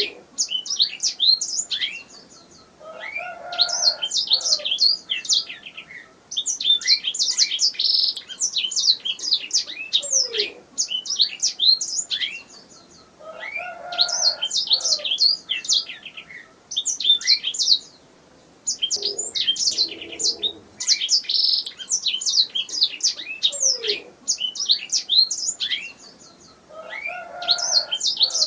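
Canary singing: long phrases of fast, high trills and chirps, broken by short pauses every few seconds.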